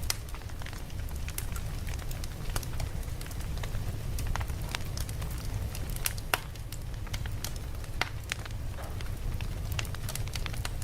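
Campfire crackling: irregular sharp pops and snaps, a couple louder than the rest partway through, over a steady low rumble of the flames.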